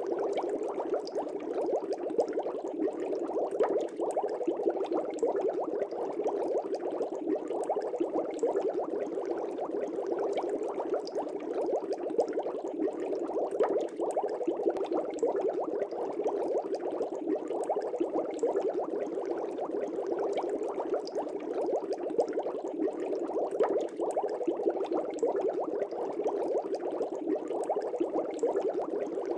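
Air bubbles rising and bursting in a fish tank: a steady, dense bubbling with fine pops.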